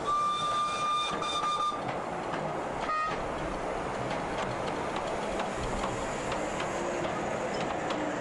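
Miniature steam locomotive's whistle blowing one steady note for nearly two seconds, then a short second toot about three seconds in. Both sound over the continuous running noise of the train.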